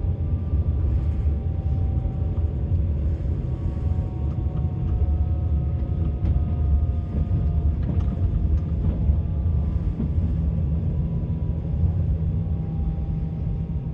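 Passenger train running, heard from on board: a steady low rumble of the ride with faint whining tones that slowly sink in pitch, and a few faint clicks of the wheels over the rails near the middle.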